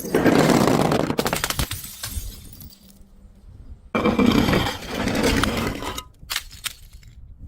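Glass bottles being crushed and shattering: two loud crunching bursts, one at the start and another about four seconds in, each lasting about two seconds, followed by a few small clinks of glass pieces.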